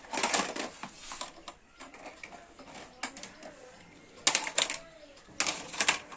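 Hard plastic toys being handled and knocked together, clattering in three bursts: at the start, a little past four seconds in, and again around five and a half seconds.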